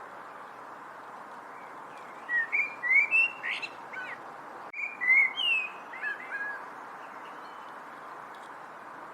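A songbird sings two short phrases of quick, sliding whistled notes, one about two seconds in and another about five seconds in, over a steady background hiss.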